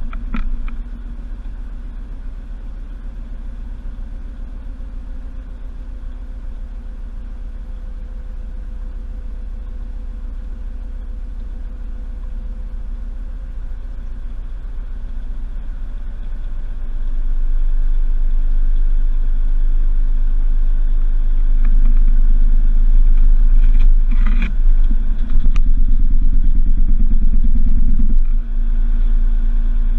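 Washing machine running, heard from inside the drum: a steady low hum that gets louder about halfway through. A few knocks come near the end, and the sound eases off a couple of seconds before the end.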